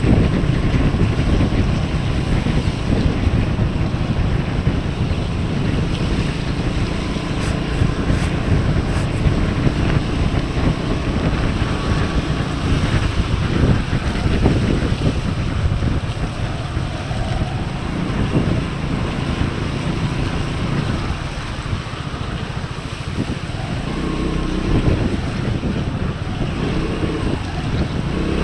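Wind buffeting the microphone while riding a Piaggio MP3 300 scooter, its single-cylinder engine running underneath and rising and falling a little.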